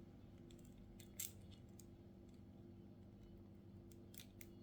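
Near silence: faint steady room hum with a few faint light clicks, the clearest a little over a second in.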